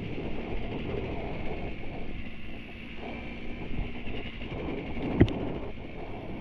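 Enduro dirt bike running along a trail, its engine under light throttle with mechanical clatter from the machine, and one sharp knock about five seconds in.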